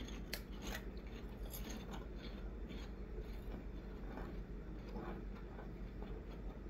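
Two people chewing crunchy fried pork rinds, with soft, irregular crunches throughout and a sharper crunch just after the start.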